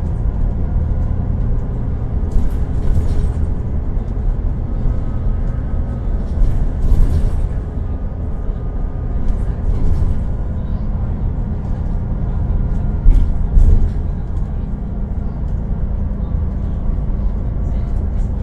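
Volvo B12BLE bus engine running with a steady low rumble, the odd engine sound the uploader draws attention to. Short hissing or rattling noises come through a few times, with a loud thump about 13 seconds in.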